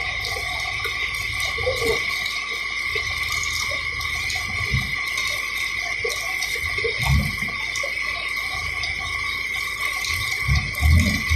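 Backhoe engine running steadily: a constant low rumble under a steady high whine, with a few louder low surges about two-thirds of the way in and near the end.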